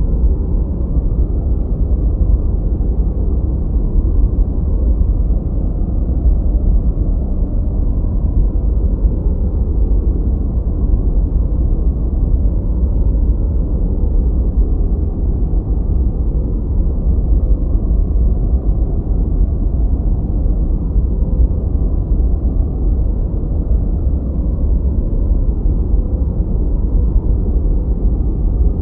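A continuous, steady noise track, deep and rumbling with almost no high end, closer to brown noise than to true white noise. It does not change.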